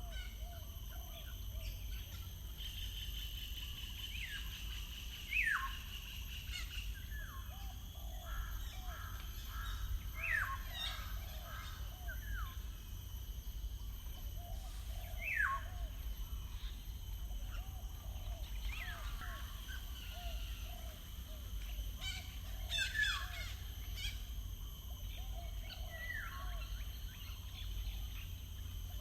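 Wild birds calling: a loud call sweeping down in pitch repeats about every four to five seconds over softer, lower notes in short quick runs. A steady low hum lies beneath.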